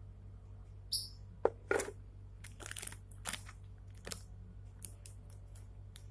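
A run of irregular soft clicks, crinkles and crackles, with a short high squeak about a second in, over a steady low electrical hum.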